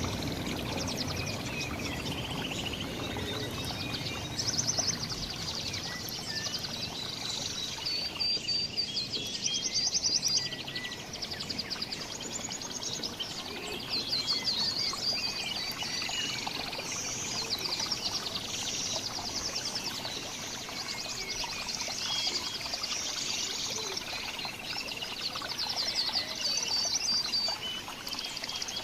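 Several small songbirds chirping and singing at once, with many quick high trills overlapping throughout, over a steady background hiss.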